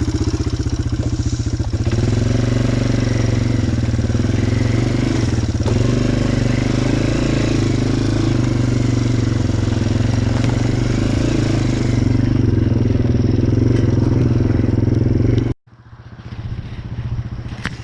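Small vehicle engine running steadily while riding, then cutting off abruptly about fifteen seconds in, followed by a few light clicks.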